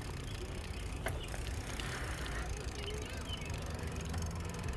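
Wind rumbling on the microphone with steady riding noise from a bicycle on the move, and a sharp click about a second in.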